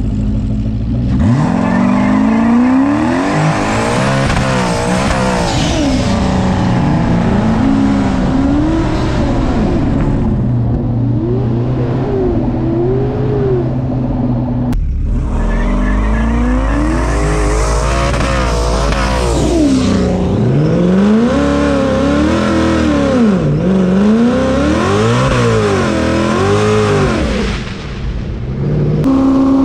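ProCharger F1A-supercharged Ford Mustang running at full throttle in a 60-to-160 mph roll race. The engine pitch climbs and drops sharply again and again through upshifts, over two pulls split by a sudden cut about halfway. Near the end the level falls briefly as the throttle comes off.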